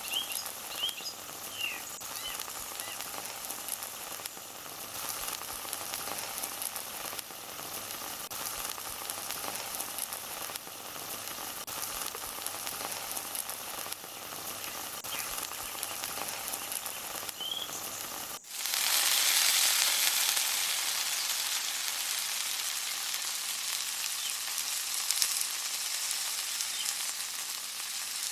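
Food frying in hot oil in a pan, with a steady sizzle and a few bird chirps in the first couple of seconds. About two-thirds of the way through it cuts abruptly to a louder, brighter sizzle.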